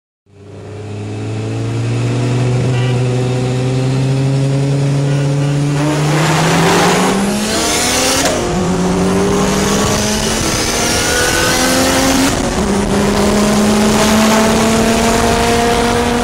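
A high-powered car engine accelerating hard through the gears. Its pitch climbs steadily, drops sharply at two upshifts about halfway and three-quarters through, and climbs again after each.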